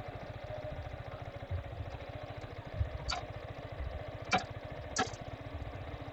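Yamaha R15's liquid-cooled single-cylinder engine running steadily. Three short sharp clicks come about three, four and five seconds in.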